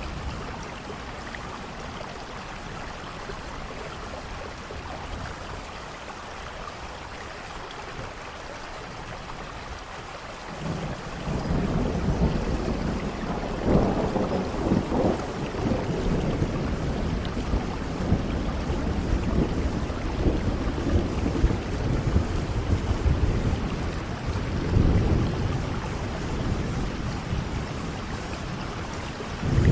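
Steady rain, with rolling thunder that rumbles in about a third of the way through and keeps going, swelling louder several times.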